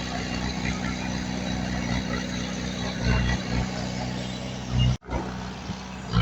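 Diesel engine of heavy earthmoving machinery running steadily at low revs, with a brief dropout about five seconds in.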